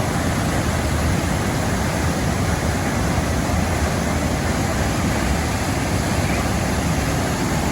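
Rushing water of Davis Falls, a steady, unbroken noise of the waterfall pouring into its gorge.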